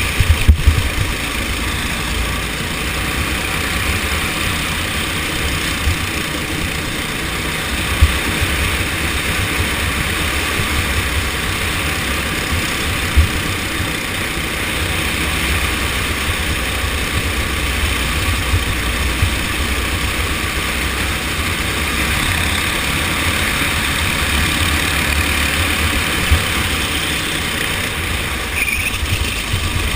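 Go-kart engine running steadily, with irregular deep thumps underneath and a few brief sharp knocks.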